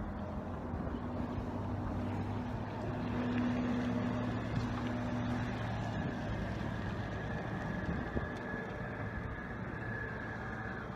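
Boat motor running steadily, its low hum easing off after about six seconds while a faint higher whine comes in.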